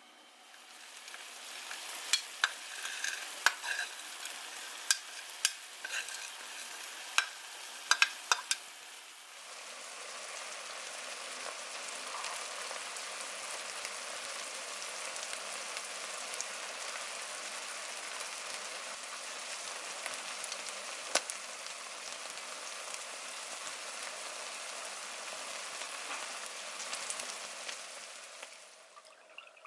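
Food sizzling in a frying pan, with a utensil clacking against the pan as it is stirred over the first several seconds, then a steady sizzle with only an odd click.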